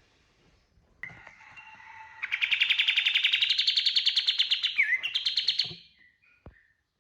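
Kapas tembak songbird singing its 'tembakan' burst: a few soft notes, then a loud, very fast trill of rapid repeated notes lasting about three and a half seconds and rising slightly in pitch, followed by a couple of short chirps.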